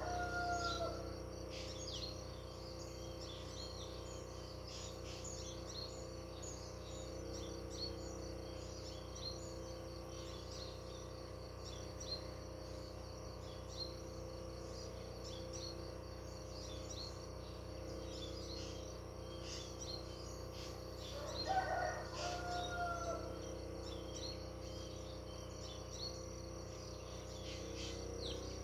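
Countryside bird ambience: many small birds chirping throughout over a steady background hum. About three quarters of the way through comes one longer, louder bird call.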